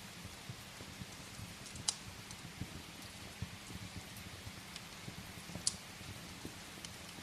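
Steady rain falling, mixed with a wood fire crackling in a fireplace, with two sharp pops, one about two seconds in and one near six seconds.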